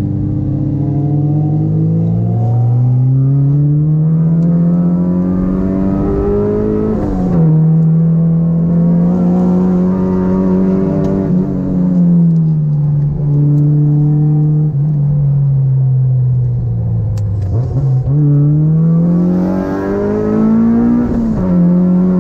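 A Honda Integra DC2's four-cylinder engine heard from inside the cabin, its revs climbing and rising and falling with the throttle. The revs drop sharply at two gear changes, about a third of the way in and near the end, and sag slowly in between as the driver eases off.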